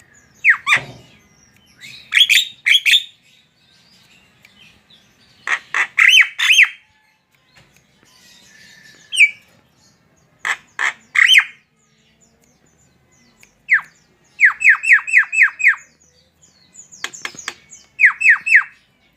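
Javan myna calling: loud, sharp, downward-sliding notes in quick clusters of two to six, repeated every second or two, with one fast run of about six notes near the middle.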